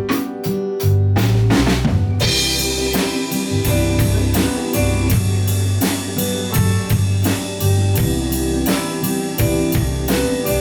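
Live band music: sustained keyboard chords and bass over a drum kit keeping a steady beat. About two seconds in, the drums and cymbals come in fuller and brighter on every beat.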